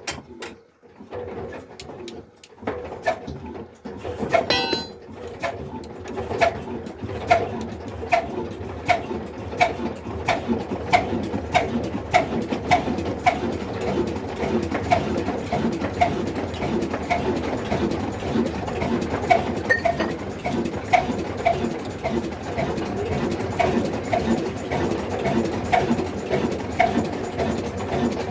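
Old black desi diesel engine, a slow-speed single-cylinder engine of the Ruston type, catching after being started: uneven at first, then settling from about four seconds in to a steady, slow firing beat of roughly three strokes every two seconds.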